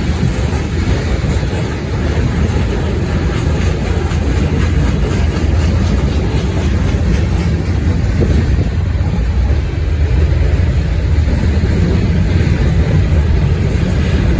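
Freight train rolling past steadily, its cars running over the rails, with wind buffeting the microphone.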